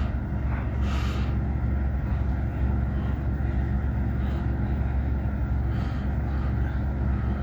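Remote-controlled 2006 Hampton Bay ceiling fan running steadily on its low speed setting: an even motor hum with the rush of the turning blades.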